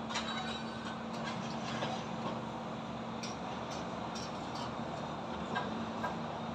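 Urban construction-site and highway ambience: a steady wash of traffic noise with a constant low hum, and a handful of short clanks and knocks from the building work.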